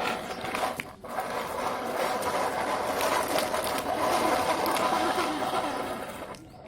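Plastic toy vehicles rattling and clattering, a dense, steady mechanical chatter with a short break about a second in.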